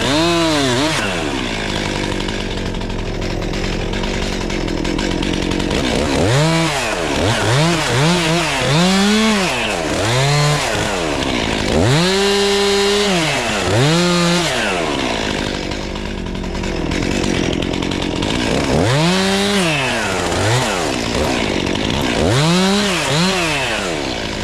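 Two-stroke chainsaw running and revving up and down in repeated throttle bursts while cutting up felled trees. One burst is held for about a second just past the middle, and the revving eases off for a few seconds early on and again later.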